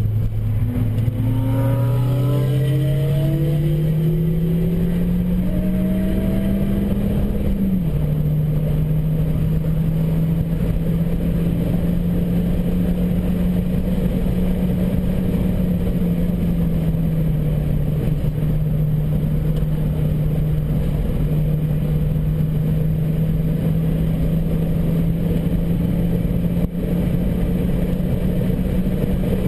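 Turbocharged Opel Coupe's engine heard from inside the cabin, its note climbing steadily under full acceleration for about seven seconds. It drops sharply at an upshift, then holds nearly steady revs for the rest of the time, over constant road and wind noise.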